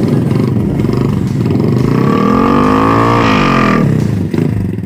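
Motorcycle engine running through a homemade exhaust made from a mini LPG stove gas canister. About two seconds in it is revved once, the pitch climbing and then falling back to idle near the end.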